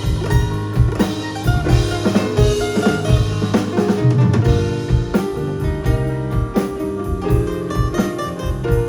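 Live band music: a drum kit playing kick and snare strokes under sustained pitched instrument notes.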